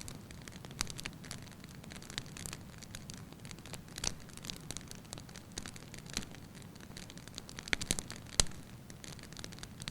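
Wood fire burning in a fireplace: a steady soft hiss with irregular crackles and pops, a quick cluster of loud pops near the end.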